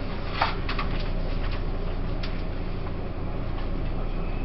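Interior running sound of a Taiwan Railways E1000 push-pull Tze-Chiang express coach: a steady low rumble and hum, with a few sharp clicks, the loudest about half a second in.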